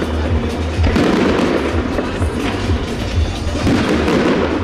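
Aerial fireworks going off: shells bursting in a dense, continuous run of pops and crackles.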